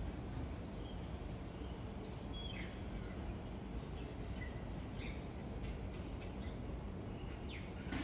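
Several short bird chirps and calls, some falling in pitch, scattered from a few seconds in and bunching near the end, over a steady low rumble of outdoor urban background noise.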